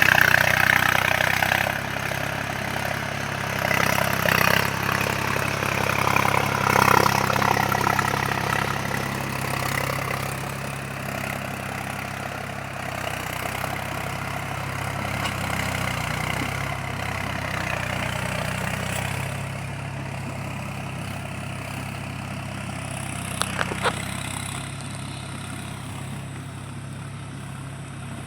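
Mahindra 275 DI tractor's three-cylinder diesel engine running steadily, louder and rougher for the first several seconds and then settling lower. A couple of sharp clicks come near the end.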